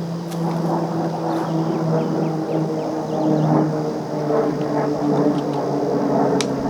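An engine drones steadily, its pitch sagging slightly, with a sharp click near the end.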